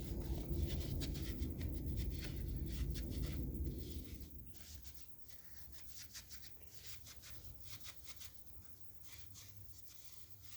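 Paper towel rubbing and scrubbing inside a cast-iron Chevy 283 engine block, a low rubbing for about four seconds, then fainter intermittent scratching and rustling.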